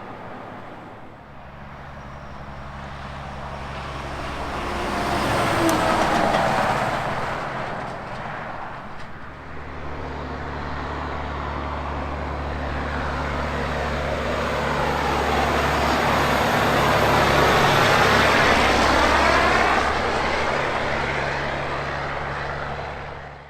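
Highway traffic passing close by, with a steady low diesel-like engine drone underneath. Two vehicles go by, the first peaking about six seconds in and a louder one near eighteen seconds, each swelling and fading with a sweeping tyre-and-engine rush. The sound cuts off suddenly at the end.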